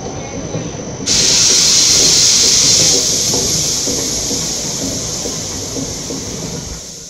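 Passenger train coaches rolling past with a low, uneven rumble of wheels on track. About a second in a loud hiss starts abruptly, holds for about two seconds, then slowly fades.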